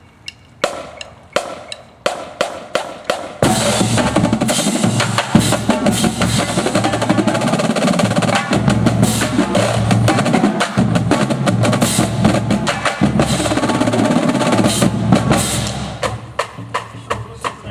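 Drum and bugle corps performing: a run of sharp drum hits, then about three and a half seconds in the full ensemble comes in loud and dense with drums throughout, thinning back to separate drum hits near the end.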